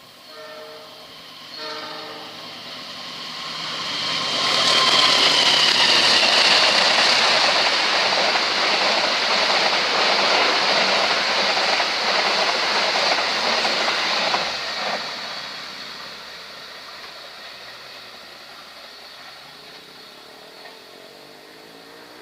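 Train horn giving two short blasts, then a long passenger train passing close by: loud rushing and rail noise for about ten seconds that then fades as it goes away.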